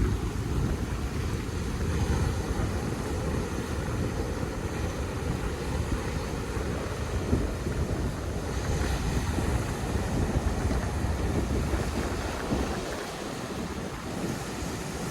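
Ocean surf washing on a beach, a steady rush that swells and eases, with wind rumbling on the microphone.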